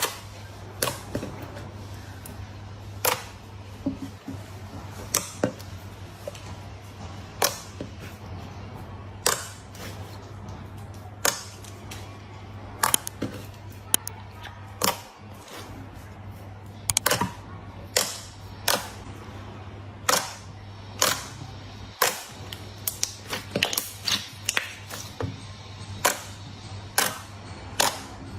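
Slime being pressed and squeezed by hand, giving irregular sharp pops and clicks as air pockets burst, over a steady low hum.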